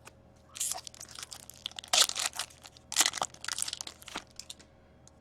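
A foil trading-card pack wrapper being torn open and crinkled by hand, a run of crackly rustling that is loudest about two and three seconds in.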